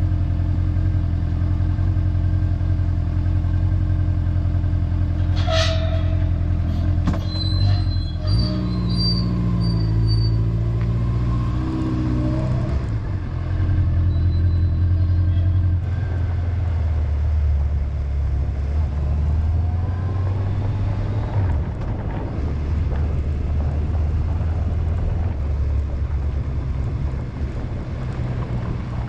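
Honda motorcycle engine idling, then revving up and pulling away through the gears, with wind noise building as it rides on. A single sharp metallic clank about five seconds in.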